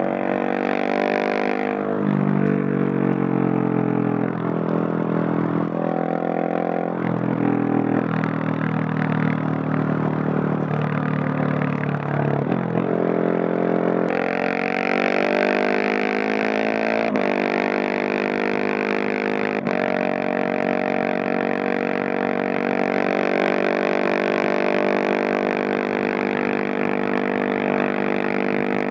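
Husqvarna 701 Supermoto's single-cylinder engine through a Leo Vince Nero exhaust under way, revving up and dropping repeatedly through gear changes, then holding a steady, higher engine speed from about halfway.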